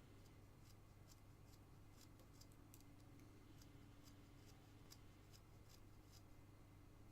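Faint short strokes of a carving knife shaving basswood, coming unevenly at roughly two a second, over a low steady hum.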